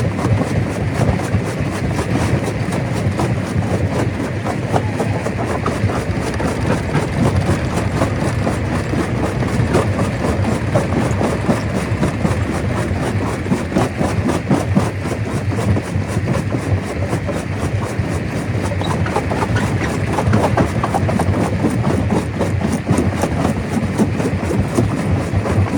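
Stone crusher running steadily: a continuous heavy mechanical din with dense, fast rattling throughout.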